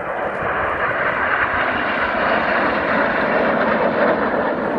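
Jet noise from the Red Arrows' BAE Hawk T1 jets flying their display overhead. The noise builds over the first second or so, then holds loud and steady.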